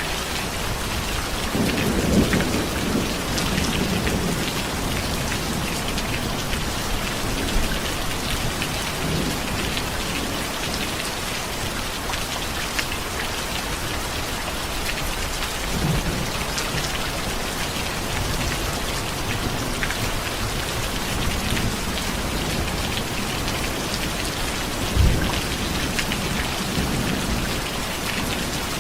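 Steady heavy rain with distant thunder: low rumbles swell up several times, the loudest about two seconds in, and a sharper low crack comes near the end.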